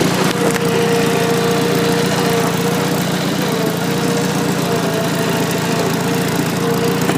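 Farmall Super A tractor's four-cylinder gasoline engine running steadily with the tractor in first gear.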